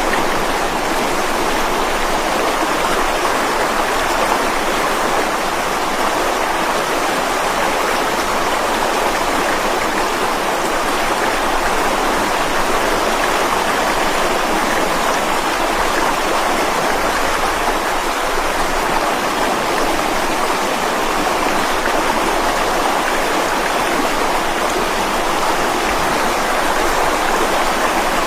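Mountain stream flowing over rocks: a steady, unbroken rushing of water.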